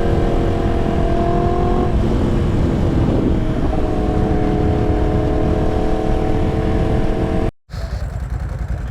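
Yamaha R1 crossplane inline-four with a full exhaust, running at steady revs while riding, over a low wind rumble. The engine note breaks off about two seconds in and comes back a moment later at a slightly different pitch. Near the end the sound cuts off abruptly, and a quieter rumble follows.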